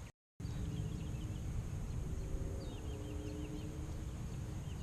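Faint bird chirps in short, quick series over steady low outdoor background noise, after a split-second dropout to silence at the very start.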